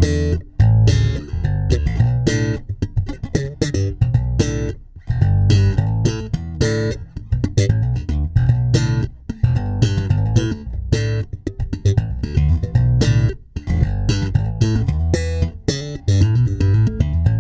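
Electric bass guitar played through an MXR Bass Compressor pedal: a busy line of short, sharply attacked plucked notes with a strong low end.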